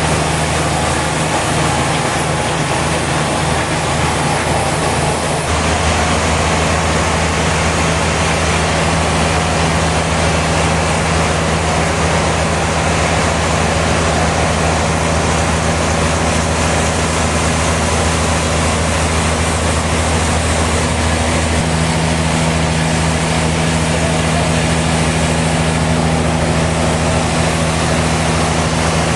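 Sawmill machinery running steadily with a low hum. The hum shifts slightly in pitch about five seconds in.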